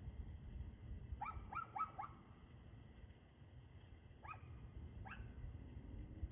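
Dog barking, faint against a steady low background rumble: a quick run of four barks about a second in, then two single barks a little later.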